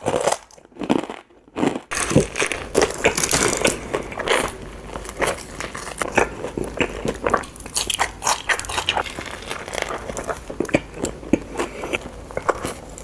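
Close-miked crunchy biting and chewing of food, a dense run of crackly crunches that starts about two seconds in after a brief lull.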